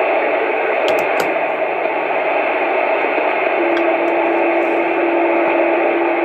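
CB radio receiver rushing with loud, steady static that cuts in suddenly as the squelch opens. About halfway through, a steady low whistle joins the hiss.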